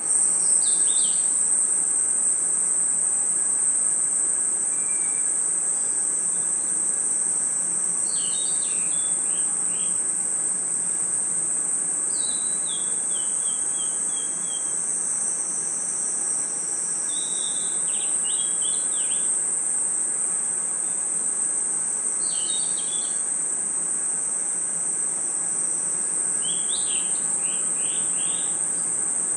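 Night insects, crickets among them, trilling in a steady, high-pitched chorus. Every four or five seconds a short phrase of quick chirping notes, each falling in pitch, sounds over it, like a bird calling.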